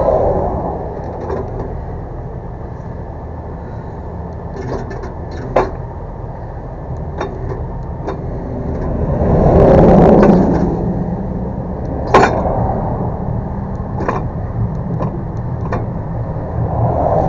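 A vehicle engine running steadily, swelling louder about ten seconds in, with a couple of sharp clicks or knocks.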